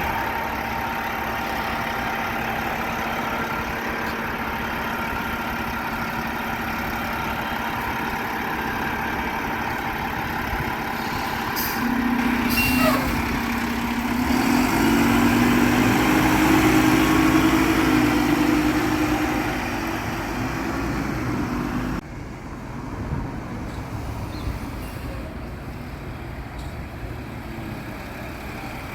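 Garbage truck engine running steadily. It grows louder with a rising, pitched whine for several seconds in the middle, then drops off suddenly about two thirds of the way through, with a few short, sharp hisses.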